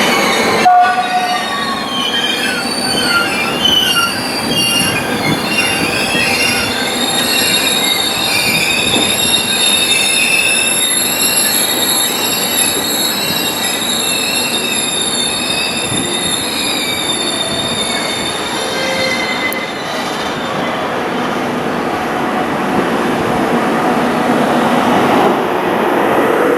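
Passenger train hauled by FS E.464 electric locomotives pulling into a station, its braking wheels giving high-pitched, wavering squeals over the rumble of the cars. The squealing dies away about twenty seconds in, leaving the rolling rumble.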